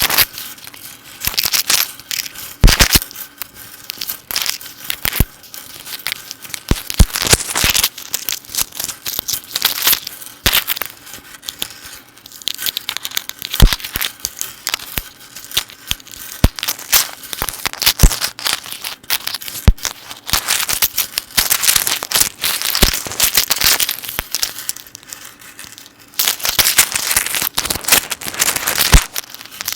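Metal necklace chains handled close to the microphone, jingling and clinking, with irregular sharp clicks and several spells of rapid clinking.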